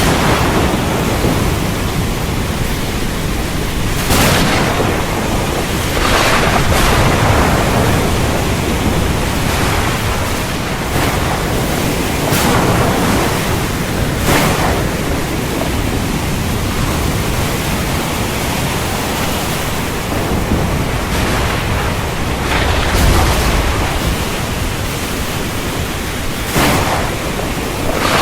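Heavy rain falling steadily under a thunderstorm, with several sharp cracks of thunder and deep low rumbling, the deepest rumble about two thirds of the way through.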